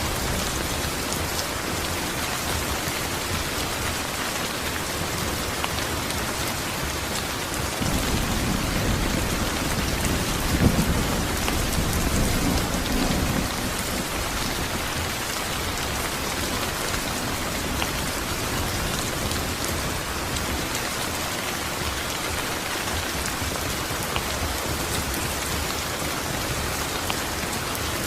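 Steady rain falling, with a roll of thunder that starts about eight seconds in, grows to a sharp clap near eleven seconds and rumbles away over the next few seconds.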